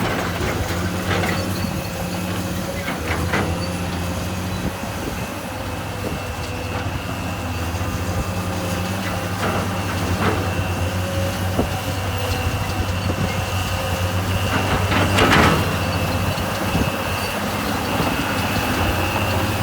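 Diesel engine of heavy earthmoving machinery running steadily under load, with a faint steady whine above it. Scattered clanks and knocks run through it, with one louder crunch about fifteen seconds in.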